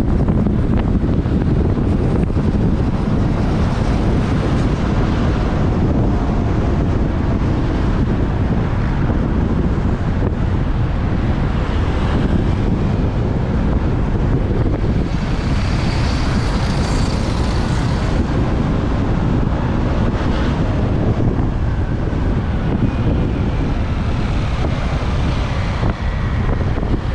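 Wind buffeting the microphone of a moving motorbike, a steady low rumble mixed with the bike's engine and surrounding road traffic. A brighter hiss swells and fades about fifteen to eighteen seconds in, and faint rising and falling engine tones come through near the end.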